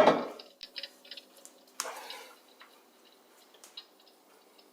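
Light metallic clicks and a brief scrape from a heavy cast-iron fireplace grate being settled into place, then a few faint ticks over a low steady hum.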